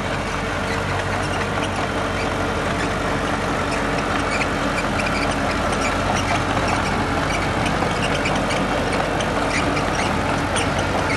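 Heavy diesel construction machinery running steadily at a low, even engine note, with many scattered light clicks and clanks over it.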